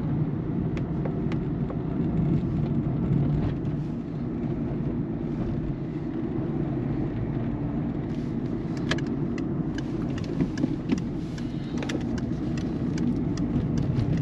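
Steady road and engine rumble inside a 2008 Peugeot 207 1.4 turbo diesel as it drives, with a few light, irregular clicks and ticks in the second half. No suspension clunk is heard: the front end is riding normally on newly fitted sway bar links.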